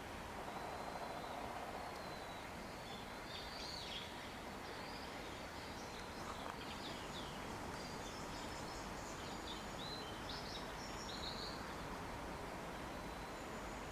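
Steady outdoor ambience with an even, faint rush, and scattered short high chirps of small birds through the middle.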